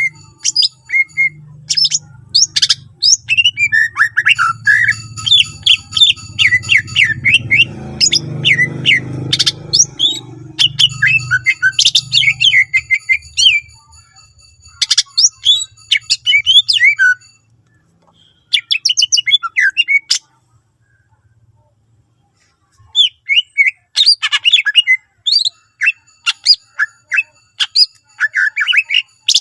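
Cucak ijo (greater green leafbird) singing loudly in rapid bursts of varied chirps and whistled notes, with a pause of a few seconds past the middle before the song resumes. A faint low hum lies under the first half.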